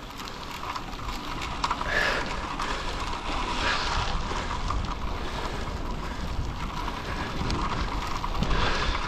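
Wind buffeting the microphone outdoors: a steady rushing noise with a low rumble.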